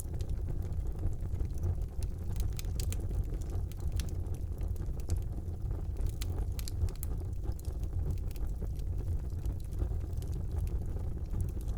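Wood fire burning in a fireplace: a steady low rumble of flames with frequent small sharp crackles and pops.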